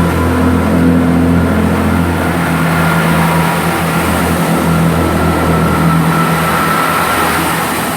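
Class 165 diesel multiple unit's underfloor diesel engines running close by with a loud, steady low hum and a few steady higher tones, easing a little near the end.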